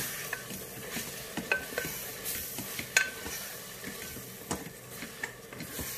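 Beef frying and sizzling with onions and spice paste in oil and ghee in an electric cooker's inner pot, while a wooden spatula stirs and scrapes through it. A few sharper knocks of the spatula against the pot come through, the loudest about three seconds in.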